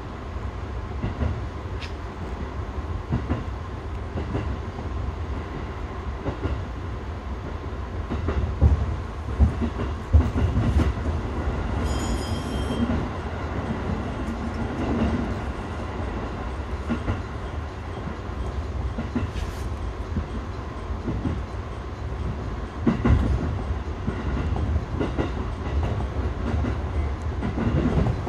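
211-series electric train running, heard from inside the driver's cab: a steady low rumble with the clickety-clack of wheels over rail joints. A short high-pitched tone sounds about twelve seconds in.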